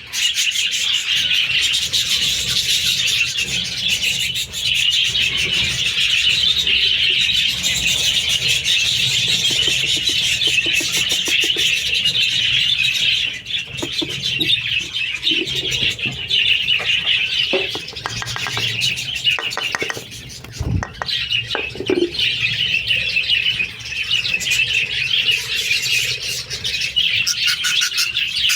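Many budgerigars chattering and chirping together in a continuous, busy warble, with a few brief knocks in the middle stretch.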